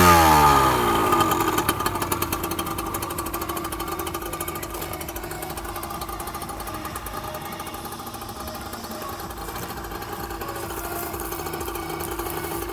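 Yamaha DT80 LC2's single-cylinder two-stroke engine with a full Giannelli exhaust, dropping back from a rev in the first couple of seconds and then idling steadily.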